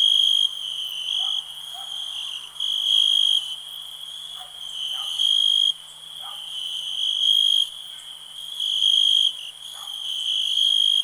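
Crickets trilling in a continuous high-pitched chorus that swells louder every couple of seconds. Faint, short, lower-pitched calls sound now and then beneath it.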